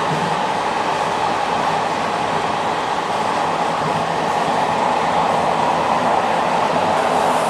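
Passenger train running along the track, a steady, even noise without distinct clicks or breaks.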